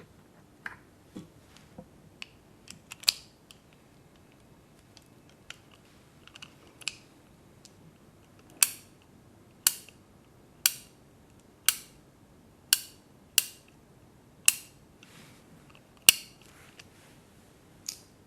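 A series of sharp clicks from tools being handled in a mock repair. A few faint ones come in the first half, then a run of louder clicks about one a second.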